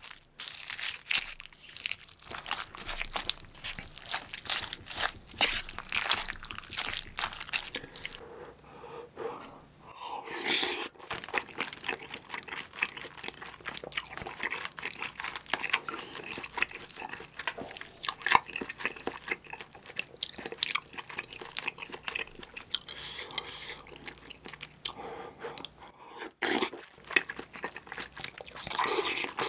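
Close-miked chewing of a mouthful of spicy kimchi stew mixed with rice and roasted seaweed: wet, crunchy mouth sounds in quick clicks. There are a couple of louder single sounds, about ten seconds in and near the end.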